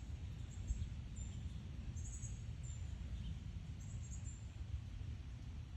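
Northern cardinal fledglings calling: short, very high-pitched calls repeated about once a second, over a steady low rumble.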